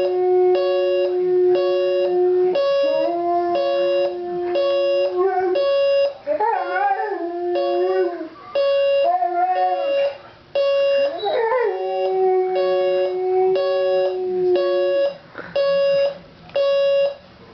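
An alarm clock beeps in quick, evenly spaced pulses while a Boxer–American Staffordshire Terrier dog howls along with it in long drawn-out howls. The howls waver and slide in pitch in the middle. The howling stops a couple of seconds before the end while the beeping goes on.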